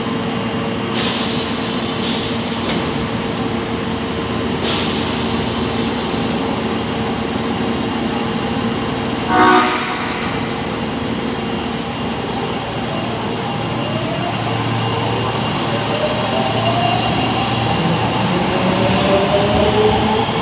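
Osaka Metro Tanimachi Line 22 series subway train (car 22615) sounding one short horn blast about halfway through, a horn the uploader singles out for its abnormal tone. A few short bursts of hiss come in the first five seconds, and after the horn the traction motors whine, rising in pitch as the train pulls away.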